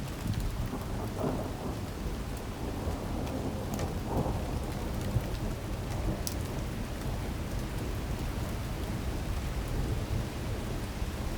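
Heavy rain pouring down in a windstorm: a steady rushing hiss over a low rumble, with a few sharp ticks of drops striking.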